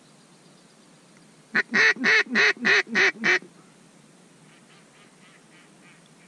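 Mallard-style quacking: a loud, close run of about seven quacks lasting about two seconds, followed about a second later by a much fainter run of about six.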